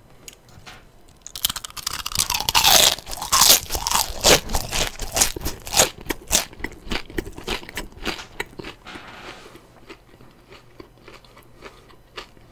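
Close-miked biting and chewing of crispy boneless fried chicken. A loud crunching bite comes about a second and a half in, followed by rapid crunchy chewing that slowly fades out.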